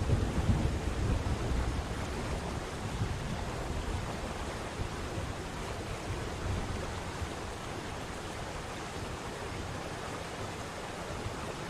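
Steady rushing of a waterfall, with low gusty rumble of wind on the microphone in the first couple of seconds that then settles.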